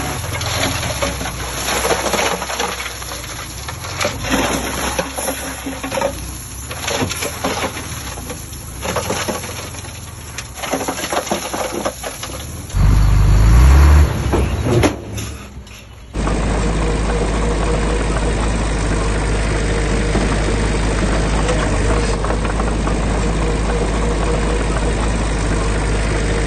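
Diesel engines of heavy construction machinery running. The sound is uneven and clattery at first, with a brief loud low rumble about two-thirds of the way in. After a sudden cut it becomes a steady engine drone.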